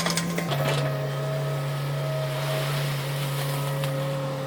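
Excavator's diesel engine running steadily with a low hum, its pitch dropping slightly about half a second in.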